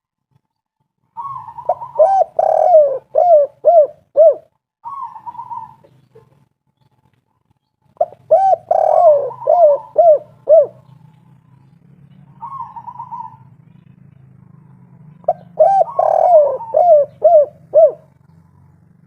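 Spotted dove (tekukur) calling in the 'kuk 3' style: three phrases of quick arched coos, roughly six or seven seconds apart, with a short buzzy note between phrases. A faint low hum runs underneath in the second half.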